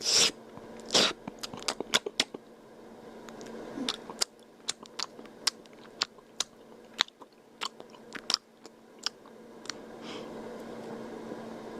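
Wet slurping and smacking mouth clicks, irregular and sharp, loudest and closest together in the first two seconds and then sparser, over a steady low hum.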